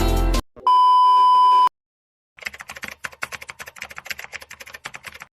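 A loud, steady electronic beep lasting about a second, right after a music track cuts off. It is followed by a rapid, irregular run of light clicks lasting about three seconds.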